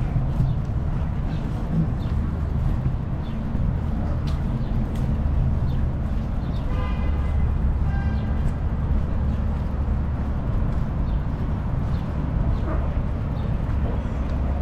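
Steady low rumble of wind and road noise from a city bike ride, with a short vehicle horn toot about seven seconds in.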